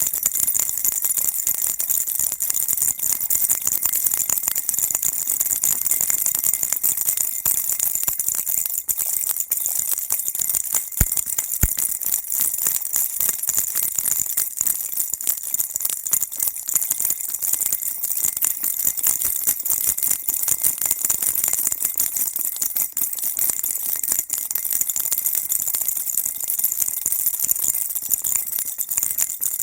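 Baby rattle shaken on and on, a steady, dense, bright jingling and rattling, with two sharp clicks about eleven seconds in.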